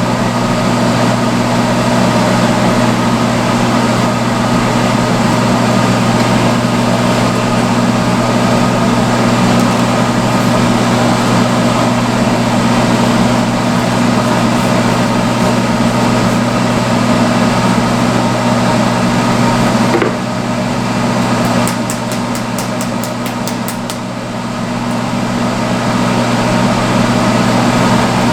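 Salon hood hair dryer running with a steady motor and fan hum over a rush of air. About two-thirds through the level dips briefly and a quick run of light clicks sounds.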